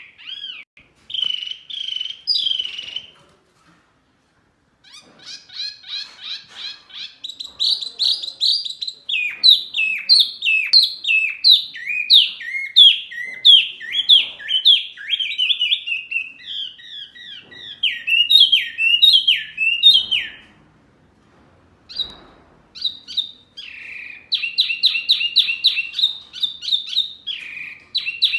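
Songbird singing loud, fast runs of sharp, down-slurred whistled notes, with two short pauses, the first about four seconds in and the second about twenty-one seconds in.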